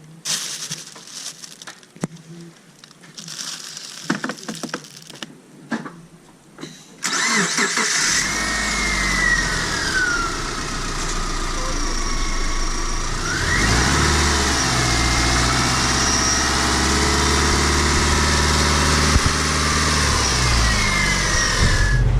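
A few light handling clicks, then about seven seconds in a Subaru boxer engine starts and runs steadily, with a wavering high whistle over its hum.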